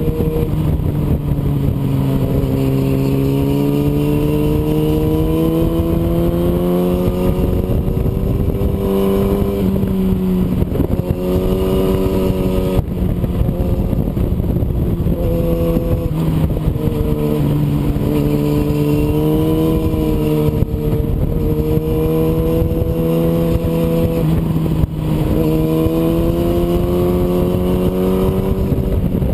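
An engine running without a break, its pitch slowly sinking and rising again several times, with two brief dips partway through.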